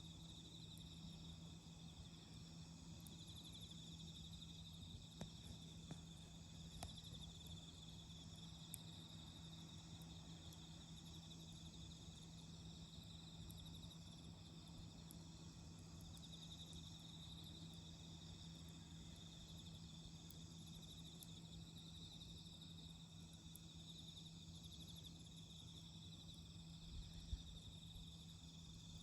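Autumn crickets chirping in a steady, faint chorus, with a few thin pops from a campfire.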